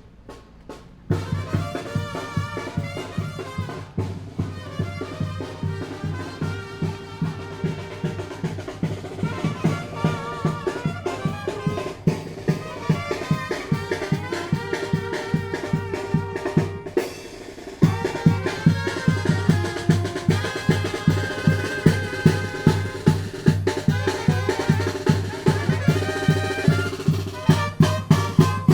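Tamborazo band playing: brass melody over a steady beat of bass drum and snare. It starts about a second in, drops out briefly just past halfway, and comes back louder.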